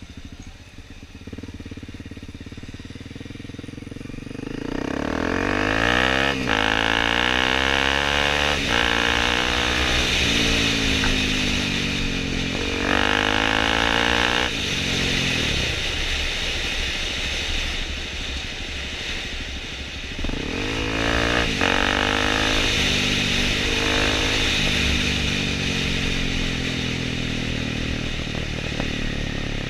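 Dirt bike engine revving hard, quieter at first and then loud from about five seconds in. Its pitch repeatedly climbs and falls back as it accelerates and shifts through the gears.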